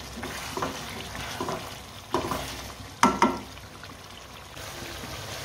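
Beef karahi masala frying in ghee, sizzling in a metal pot while a wooden spoon stirs it, with a few irregular scrapes and knocks of the spoon against the pot, the loudest about three seconds in.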